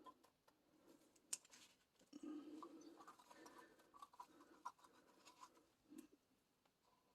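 Faint scraping and a few sharp little clicks from handling small crafting tools and a resin cup and mold, with a louder click about a second in.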